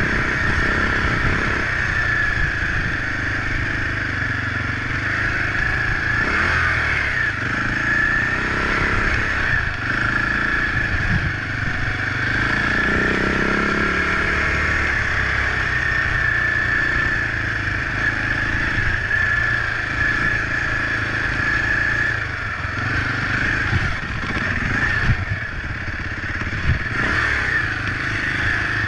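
Husaberg FE 450 dirt bike's single-cylinder four-stroke engine running under way, its note rising and falling as the throttle is worked. A couple of sharp knocks come near the end.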